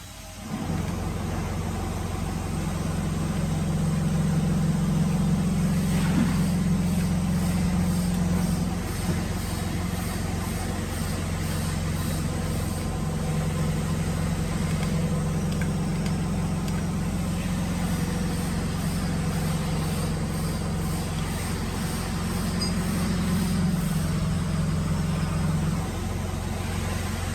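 Electric motor of a woodworking drilling machine running with a steady deep hum, starting up about half a second in. The hum strengthens and eases a few times.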